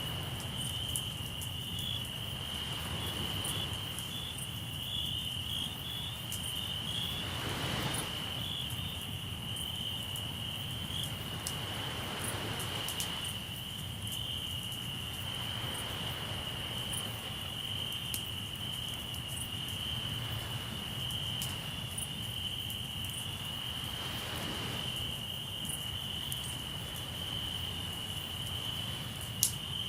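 Crickets trilling steadily over the crackle of a campfire, with soft sea waves washing in every few seconds. One sharp pop from the fire near the end.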